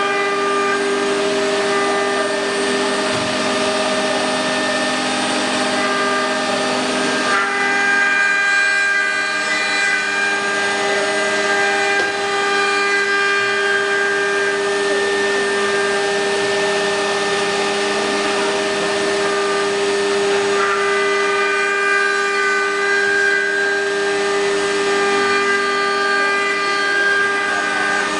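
CNC wood router's spindle running, a steady high whine of several tones over a hiss. The pitch shifts slightly about seven seconds in and again about twenty seconds in.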